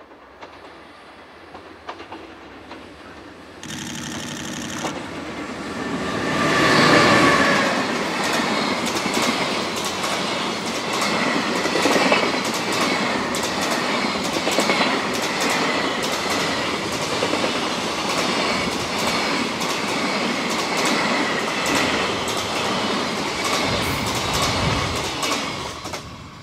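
EH500 electric locomotive hauling a container freight train through the station without stopping. The locomotive's pass is loudest about seven seconds in. Then the container flatcars' wheels clatter over the rail joints in a steady rhythm, dying away near the end as the last wagons go by.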